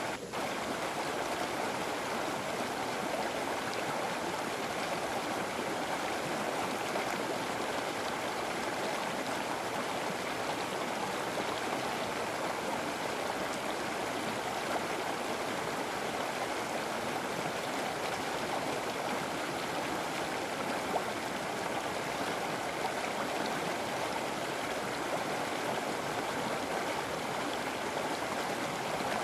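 Flowing river: a steady, even rush of running water.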